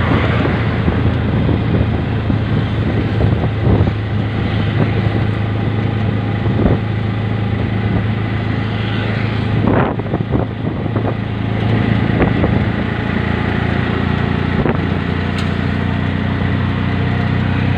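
Engine of the vehicle being ridden in, running steadily with a low drone, mixed with road and traffic noise and a few brief passing sounds.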